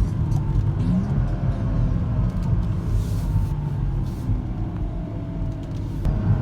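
Modified BMW 435i's turbocharged straight-six engine heard from the cabin while driving, a steady rumble whose pitch slides down several times as the revs drop.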